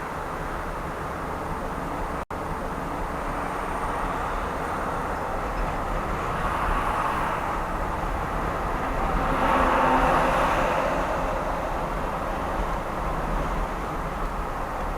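Steady road and engine noise of a car driving along an expressway, swelling louder about ten seconds in, as a passing vehicle would. A momentary cut in the sound about two seconds in.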